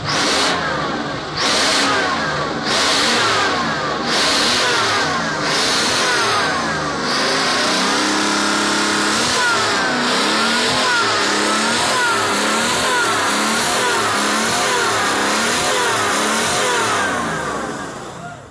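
Supercharged 12V-71 Detroit Diesel two-stroke V12 being revved: a series of short throttle blips over the first several seconds, then held at higher revs with the pitch wavering up and down, fading away near the end.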